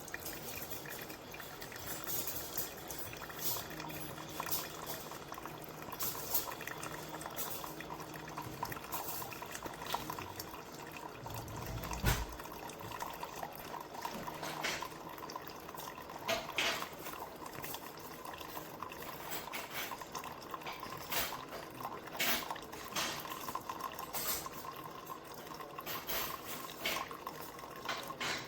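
Drip coffee maker brewing: water gurgling, sputtering and dripping, with scattered small clicks and one low thump about twelve seconds in.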